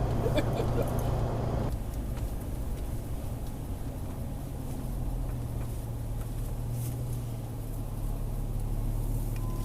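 Truck engine idling, heard inside the cab as a steady low hum. A wider rushing noise drops away about two seconds in.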